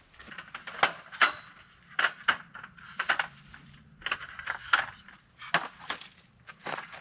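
Camping gear being handled and packed up: irregular knocks, clinks and crunching, about a dozen in quick clusters.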